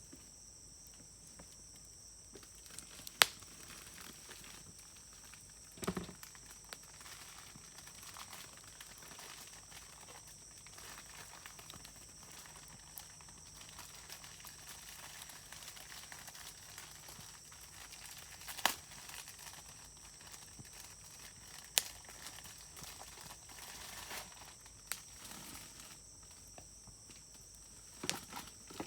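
Wood fire burning with a faint steady crackle and a handful of sharp pops from the burning wood, the loudest about three seconds in, plus a duller knock of shifting wood near six seconds. A steady high-pitched insect chirring runs underneath.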